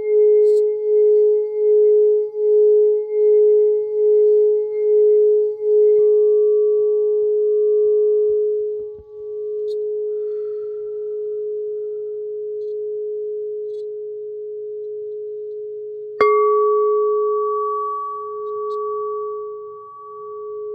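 A 6-inch black tourmaline crystal singing bowl sounding one steady tone, pulsing in loudness for the first five seconds or so and then ringing evenly. About 16 seconds in it is hit sharply and rings on with a brighter, higher overtone added.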